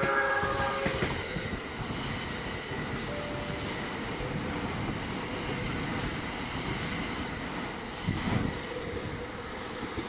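JR West 681 series electric multiple unit passing close by, a continuous rush and rumble of wheels on rails with a faint steady whine. A short pitched tone is fading out in the first second, and there is a brief louder surge about eight seconds in.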